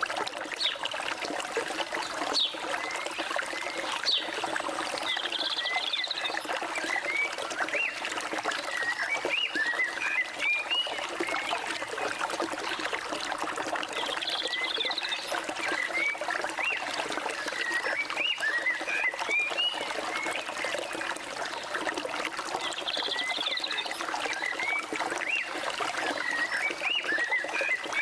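Forest stream trickling steadily, with birds singing over it in runs of short rising chirps. A brief buzzy call recurs about every nine seconds.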